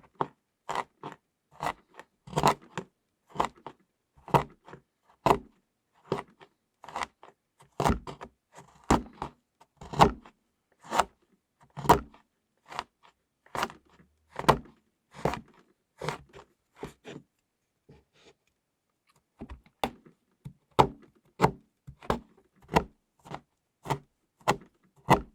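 A knife chopping a bar of chocolate into flakes: sharp crunching strokes at about two a second, with a short pause a little past the middle.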